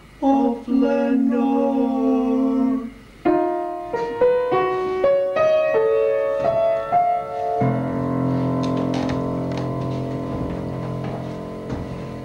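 Keyboard accompaniment played on a piano: a held chord, then a slow rising line of single notes climbing step by step, ending on a full chord that is left to ring and slowly fade.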